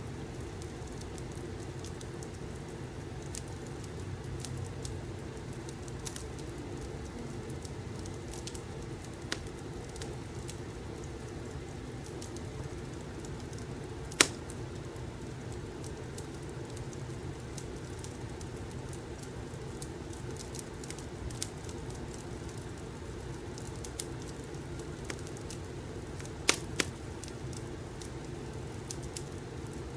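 Wood fire crackling, with scattered sharp pops over a steady low rumble of room ambience. The loudest pop comes about halfway through, and two more come close together near the end.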